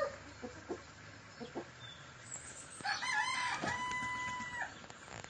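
A rooster crows once, about three seconds in: a few short broken notes, then one long held note that cuts off.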